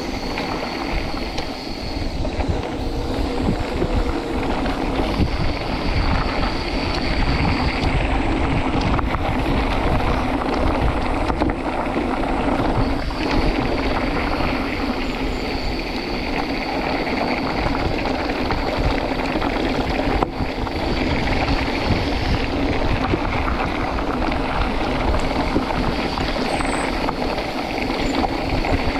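Wind buffeting the microphone, with constant rumbling and rattling from a fast downhill mountain-bike descent, a faint high whine coming and going and a few sharp knocks.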